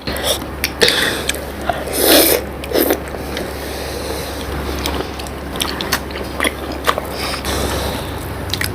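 Close-miked eating noises: wet clicks and smacks of a mouth chewing syrup-soaked rasgulla, scattered irregularly, with two louder noisy bursts about two seconds in, over a steady low hum.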